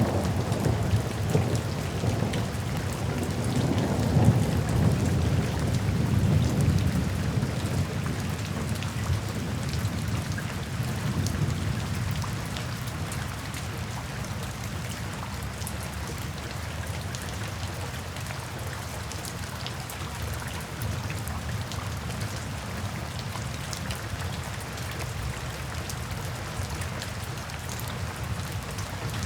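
Steady rain with thunder: a low rolling rumble of thunder swells about four seconds in and dies away by about twelve seconds, leaving the even hiss of rain with scattered drop ticks.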